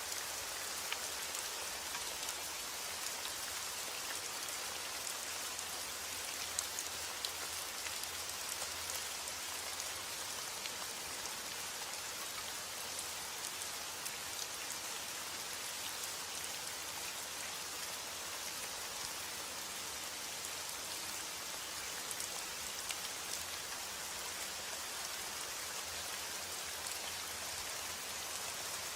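Steady rain with many small drop impacts pattering on a surface.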